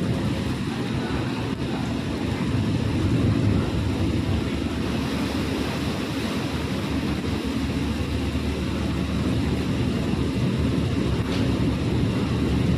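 A boat under way: its engine runs steadily under the rush of water and wind.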